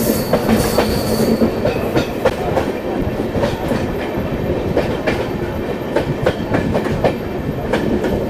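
Passenger train running on the rails, heard from aboard a coach: a steady rumble with irregular clicks of the wheels over rail joints. A faint high wheel squeal fades out about a second in.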